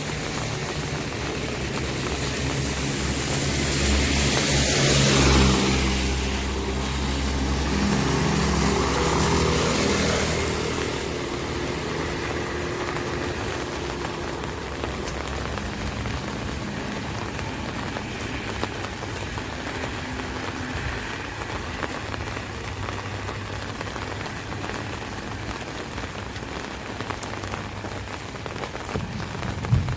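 Rain pattering steadily on an umbrella. During the first ten seconds or so a motor vehicle goes past, its engine and tyres swelling twice and then fading, leaving only the rain.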